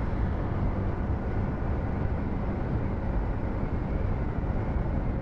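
Yamaha R15 V4's single-cylinder engine running steadily under way, with road noise.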